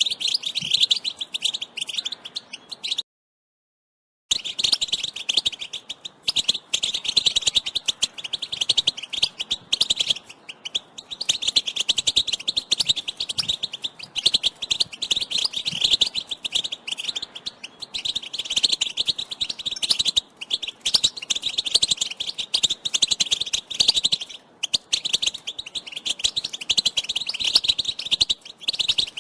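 European goldfinch twittering: a rapid, continuous chatter of short chirping notes, broken by a second of silence about three seconds in.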